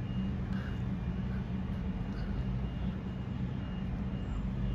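CAF Civity train running at close range, a steady low machine hum with no horn.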